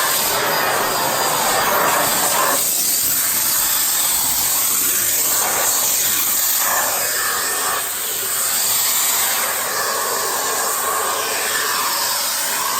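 Miele Blizzard CX1 bagless vacuum cleaner running, a steady loud hiss of suction whose tone shifts now and then.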